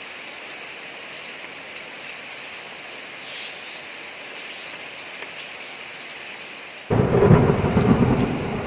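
Steady rain falling on a street, then about seven seconds in a sudden loud clap of thunder that rumbles on and slowly fades.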